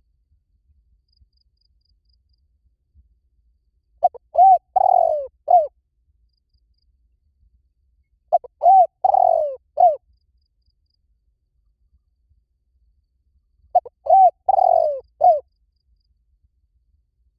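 Spotted dove cooing: three phrases about five seconds apart, each a quick run of a few coos lasting about a second and a half.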